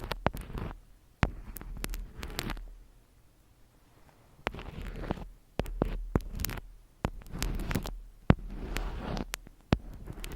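Close-miked ASMR handling sounds: sharp taps and clicks, with short stretches of rustling and scratching between them.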